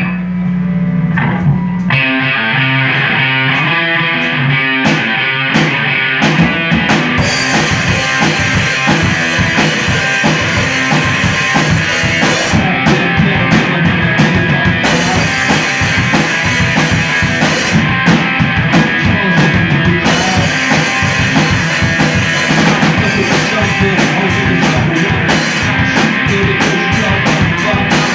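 Live rock band playing the instrumental opening of a song: a repeating riff comes in about two seconds in, drums and cymbals join around seven seconds, and the full band then plays on.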